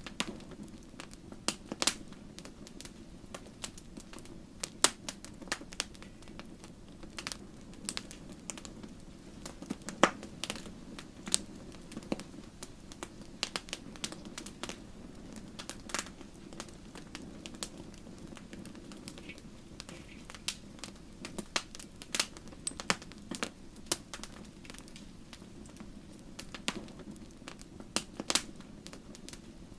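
Wood fire crackling in a fireplace: irregular sharp pops and snaps, a few of them much louder, over a steady low rush of the flames.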